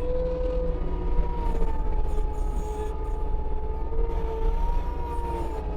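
Case TV450 compact track loader running a Fecon forestry mulching head: a steady diesel rumble under a high hydraulic whine that dips and recovers slightly in pitch as the head chews through brush.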